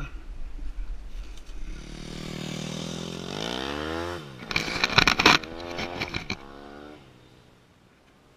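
Small petrol engine revving up with a rising pitch, then dropping sharply, with a loud burst of clatter about five seconds in. The engine tone then falls and dies away about seven seconds in.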